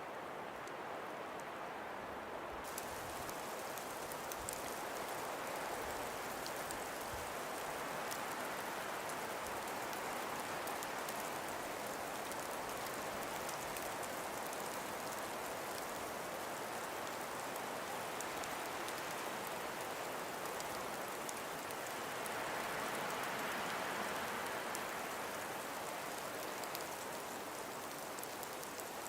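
Steady breeze through frost-covered forest trees, an even hiss that swells a little about three-quarters of the way through, with faint fine ticking on top.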